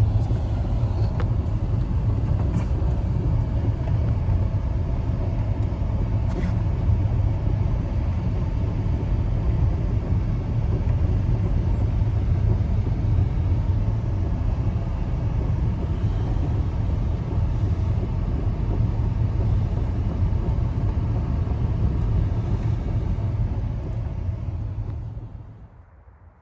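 Strong wind rumbling steadily and heavily, mostly deep in pitch, cutting in suddenly and fading away near the end.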